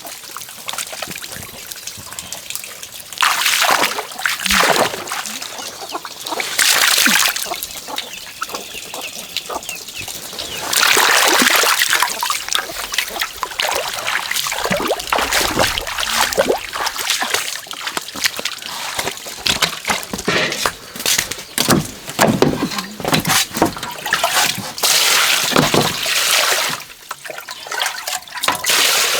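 Pond water splashing and sloshing in repeated surges, with trickling and dripping between them.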